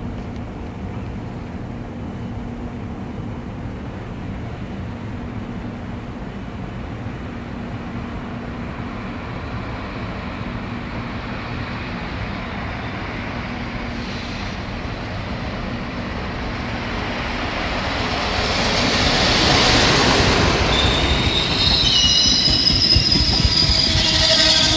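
Electric-locomotive-hauled passenger train approaching and running past along the platform: a steady distant rumble that swells to its loudest around three-quarters of the way through, as the coaches go by. Near the end, high-pitched wheel squeal rings over the running noise.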